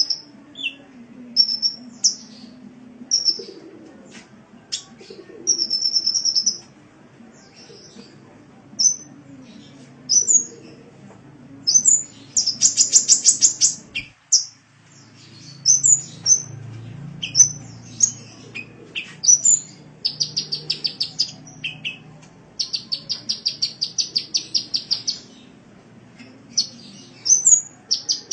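Sunbird (kolibri) song: high, sharp chirps and short whistled notes, broken by rapid trills of quickly repeated notes each lasting a second or two, several of them in the second half.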